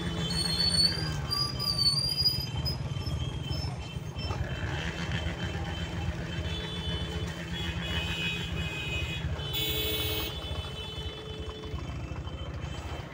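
Motor vehicle engines running close by, with a steady low rumble. A short vehicle horn blast sounds about ten seconds in, and thin high squealing tones come in the first couple of seconds.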